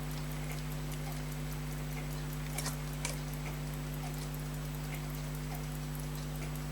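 Elgin pocket watch movement ticking faintly with rapid, even beats over a steady electrical hum, with two small clicks about two and a half and three seconds in. The movement is dry and running sluggishly, before oiling.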